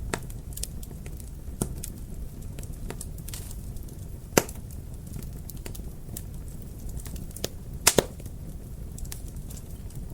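Wood fire crackling in a fireplace: scattered small crackles over a steady low rumble, with a sharp pop about four seconds in and a double pop near eight seconds.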